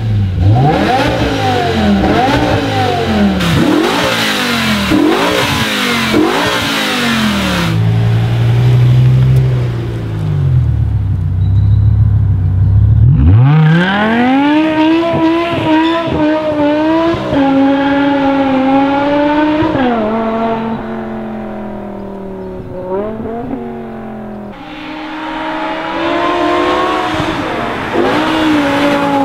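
BMW E60 M5's S85 V10 through an RPI aftermarket exhaust, blipped repeatedly in neutral with quick rising and falling revs, then settling to a low idle for a few seconds. About halfway in it accelerates hard, the engine note climbing and dropping at each gear change, fades somewhat, and comes back louder under hard acceleration near the end.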